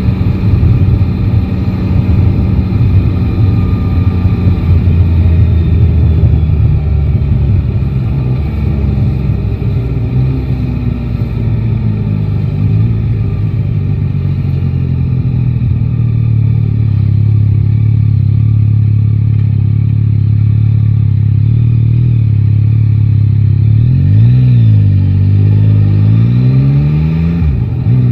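Yamaha Tracer 9 GT's 890 cc inline three-cylinder engine running under way, with road and wind noise strongest in the first half. Near the end the engine pitch falls and rises twice, as with revs dropping and picking up again.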